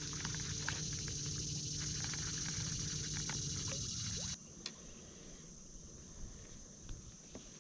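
Outdoor river ambience: a steady high insect buzz over a low hum that cuts off suddenly about four seconds in, with a few faint clicks.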